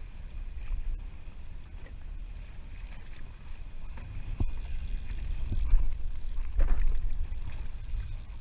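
Wind buffeting the microphone over water sloshing against a kayak hull, with a few short knocks about halfway through.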